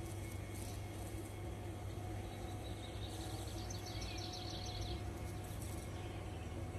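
A bird gives a rapid trill of short, high chirps about three seconds in, lasting roughly two seconds, over a steady low background hum of the outdoors.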